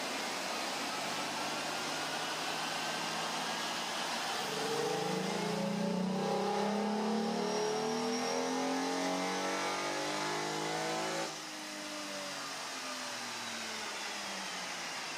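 1996 Pontiac Grand Prix GTP's 3.4-litre DOHC V6 under full load on a chassis dyno: the engine note climbs steadily through the rev range. About eleven seconds in, the throttle closes and the revs fall away. A steady rush of fan noise runs underneath.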